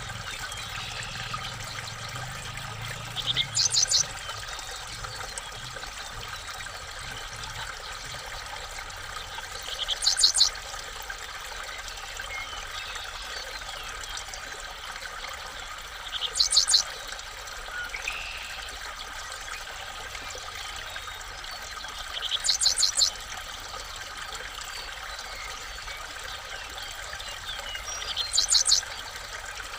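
A bird calling five times, about every six seconds. Each call is a short rising note followed by a quick run of three or four high notes. A steady hiss like running water continues underneath.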